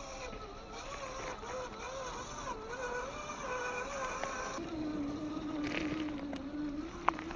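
Electric motor and gearbox of an RC4WD TF2 scale RC truck whining as it drives, the pitch wavering up and down with the throttle, then settling to a lower, steadier whine a little past halfway. A sharp click near the end.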